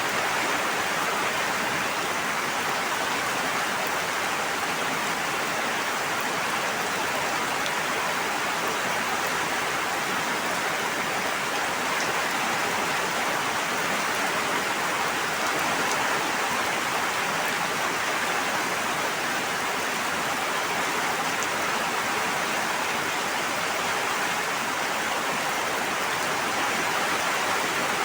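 A steady, unchanging wash of water sound, even in level throughout.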